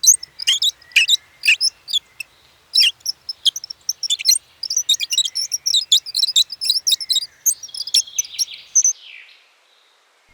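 Several small birds chirping in quick, overlapping high-pitched calls, which die away about nine seconds in.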